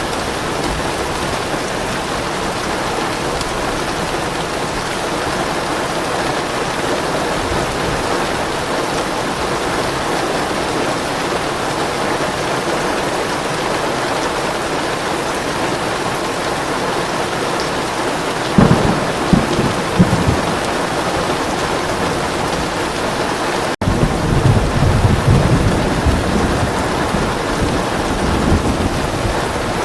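Steady heavy rain, with low rolling thunder rumbling in about two-thirds of the way through and again a few seconds later. Just before the second rumble the sound cuts out for a split second.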